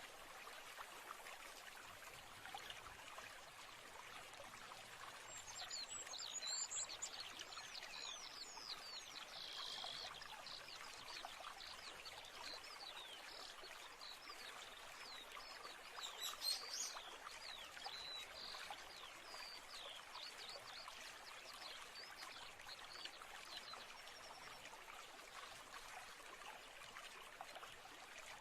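A stream running steadily, with small birds chirping in quick, high twitters from about five seconds in until a few seconds before the end, busiest twice along the way.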